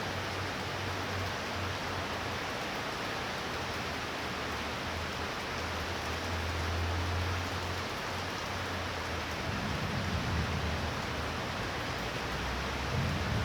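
Heavy rain falling in a thunder shower, a steady even hiss, with a low uneven rumble underneath that grows stronger in the last few seconds.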